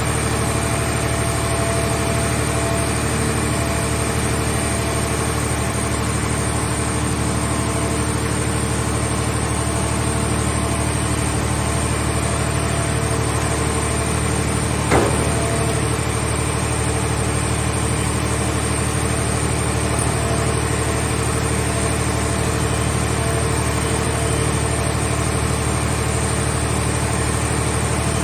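Engine of a mobile car-body baler running steadily at a constant speed, with one sharp knock about halfway through.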